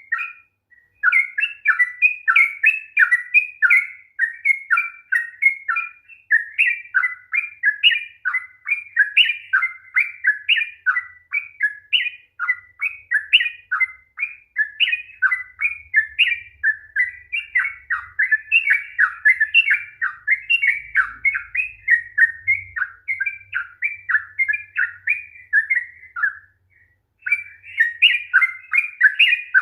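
Yellow-vented bulbul (trucuk) singing a long, rapid run of chattering, warbling notes almost without a break. This is the continuous 'ropel' song. There is a short pause about half a second in and another one near the end.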